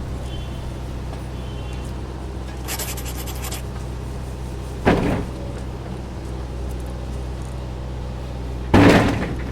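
A steady low machine hum runs throughout. A brief rattle comes about three seconds in, and two sudden loud knocks follow, one about five seconds in and one near the end, the second the louder.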